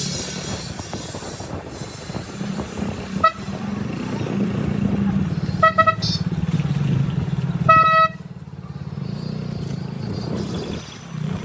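Motorcycle engine running steadily while riding in road traffic, with short horn toots: one about 3 seconds in, two quick ones near 6 seconds and a longer one near 8 seconds. The engine note drops briefly after the last toot, then picks up again.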